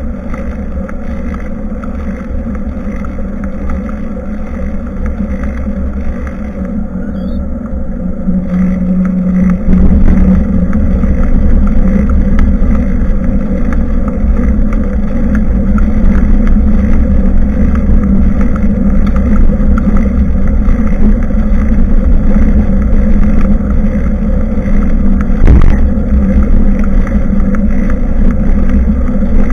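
Wind buffeting the microphone of a bicycle-mounted action camera, with a steady low rumble from the bicycle and road as it rides along. The noise gets louder about ten seconds in, and a single knock comes near the end.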